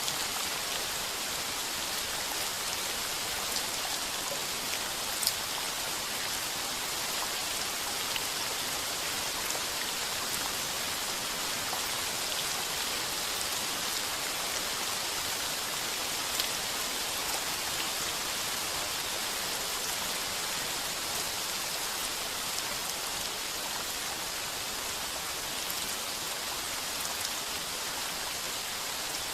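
Heavy rain falling steadily on a tin roof, an even hiss with a few sharper single drop hits, the loudest about five seconds in.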